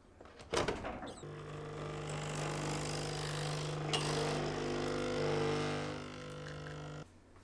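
A small electric motor running with a steady hum, starting about a second in and cutting off abruptly near the end.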